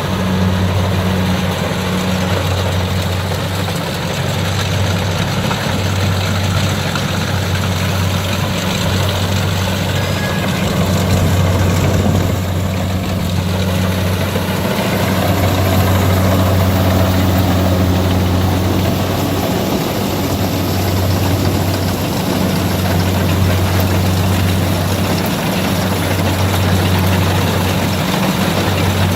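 Kubota DC60 rice combine harvester's diesel engine running steadily as the machine cuts lodged rice: a constant low drone over an even mechanical rush.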